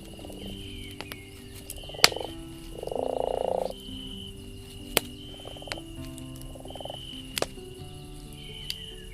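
Campfire crackling with a few sharp pops, over a frog croaking in pulsed, buzzy calls; the longest and loudest call comes about three seconds in.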